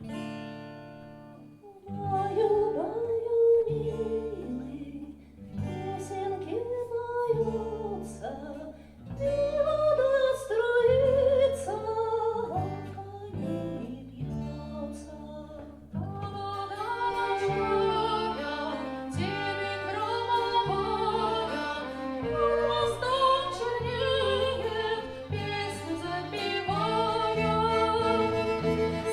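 A live band playing a slow Spanish lullaby, with synthesizer: a held chord opens it, then a steady pattern of bass notes with a melody line above.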